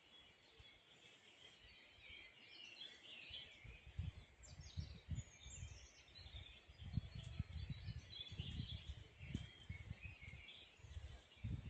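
Dawn chorus of many small birds chirping and twittering together. From a few seconds in, low gusts of wind buffet the microphone.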